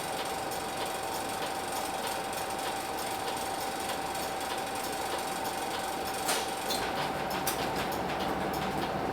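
Hino Blue Ribbon City bus's P11C six-cylinder diesel heard inside the bus: a steady rattly running noise with a constant high whine. A click about six seconds in, and the engine note then starts to come up toward the end.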